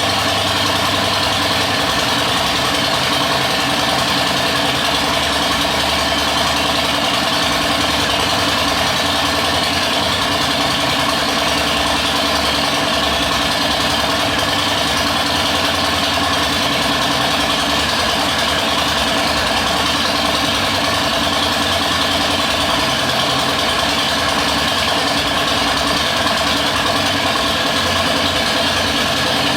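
Harley-Davidson Softail's Milwaukee-Eight V-twin engine idling steadily, with no revving.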